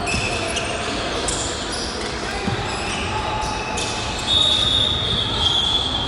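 Basketball game in a gym: a ball bouncing on the hardwood and indistinct voices. About four seconds in, a referee's whistle blows one steady, high, loud note that is held for nearly two seconds.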